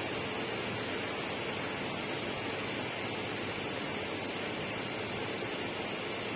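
Steady, even rushing noise that does not change, with no separate events.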